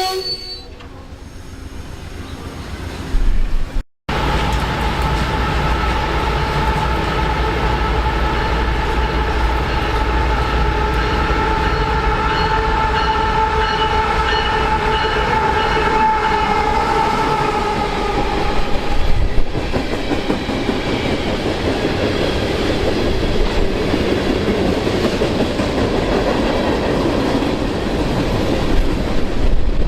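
Passenger train horn sounding a long, steady chord of several notes starting about four seconds in and lasting some fifteen seconds, then the rumble and wheel clatter of the train running past.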